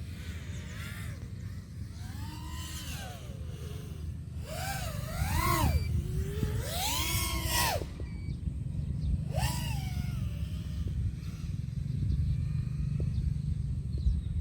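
FPV drone's brushless motors and propellers whining, the pitch sweeping up and down in several throttle swells, loudest in the middle, over a steady low rumble.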